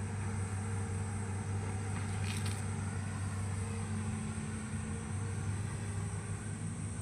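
Hitachi excavator's diesel engine running at a steady, even speed.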